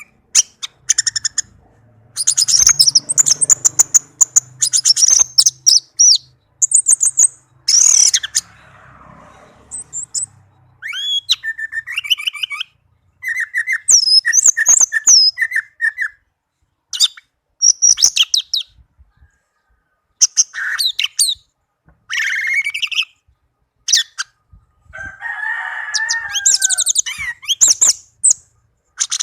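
Orange-headed thrush singing: short, varied whistled phrases with brief pauses between them, one lower, rougher phrase near the end.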